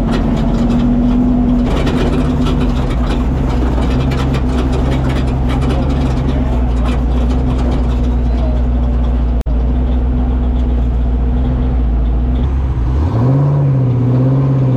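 Off-road race truck's engine running at a steady speed, heard from inside the cab, with rattling and tyre noise over rough desert ground. After a brief break about nine seconds in, the engine note rises and then falls near the end as the throttle is worked.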